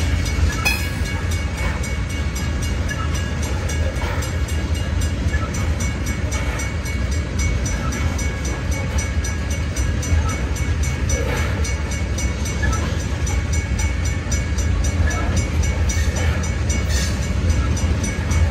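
Loaded coal hopper cars of a freight train rolling past, their wheels on the rails making a steady low rumble with scattered faint clicks.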